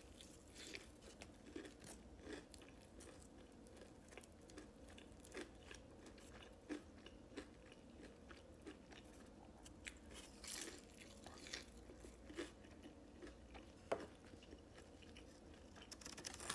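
Close-miked biting and chewing of a crispy fried chicken tender dipped in ranch: faint, scattered crunches and wet mouth clicks, with a sharper click about fourteen seconds in.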